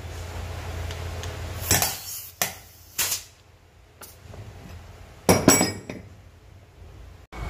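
Metal brake-caliper parts and tools clinking and knocking on a workbench: a few separate sharp clinks, then a louder cluster of knocks about five seconds in, over a low steady hum that fades after the first two seconds.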